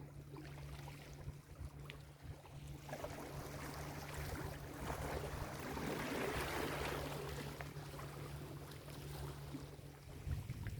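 An ocean wave breaks and washes up the beach, swelling about three seconds in, loudest a little past the middle, then drawing back. A steady low rumble runs underneath.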